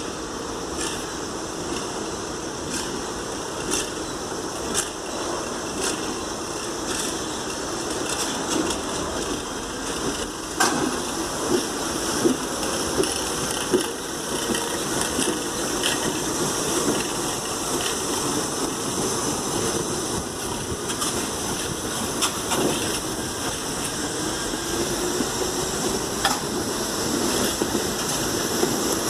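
New York City subway train running on the rails: a steady rushing noise with irregular clicks and knocks from the wheels, and a faint rising whine near the end.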